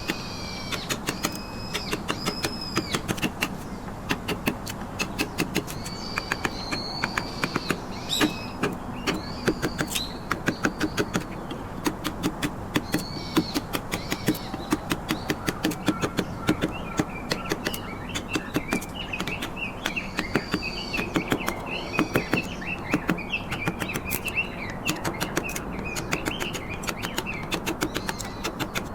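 Chisel being struck with a mallet to carve trembesi wood: a run of sharp taps, a few a second, with short pauses. Birds chirp over it, with a longer warbling song in the middle.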